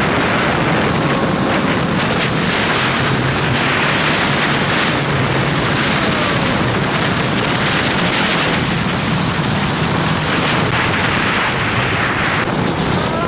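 Loud steady rush of wind buffeting the microphone, mixed with the road noise of a moving car.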